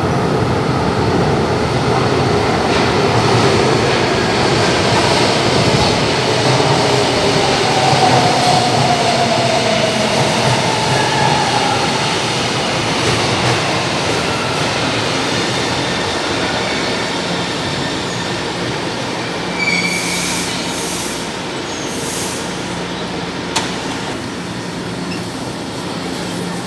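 São Paulo Metro electric train running through the station: loud rumbling wheel and motor noise with tones gliding in pitch and some wheel squeal, slowly growing quieter in the second half. A few short hisses come about twenty seconds in, and a sharp click near the end.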